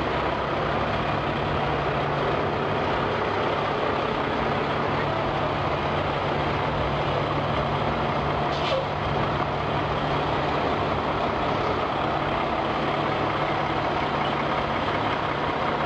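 Semi truck diesel engine running steadily at low revs, with one brief sharp sound about halfway through.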